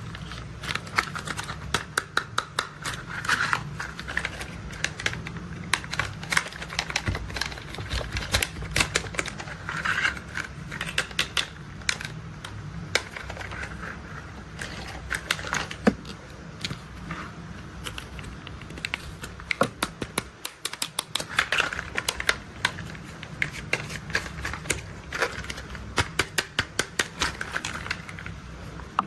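Plastic toy construction vehicles clicking, with quick runs of sharp clicks like a ratchet or typewriter, over a steady low rumble that drops out briefly about two-thirds of the way through.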